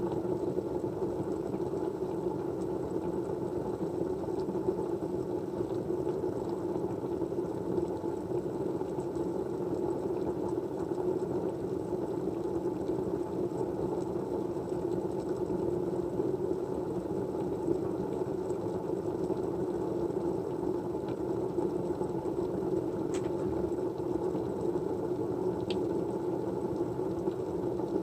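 Steady low rushing white noise, even throughout, with a couple of faint ticks near the end.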